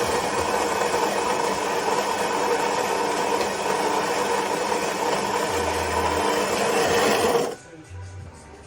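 Philips 5400 Series bean-to-cup espresso machine's built-in grinder grinding coffee beans: a steady whirring grind that stops abruptly near the end.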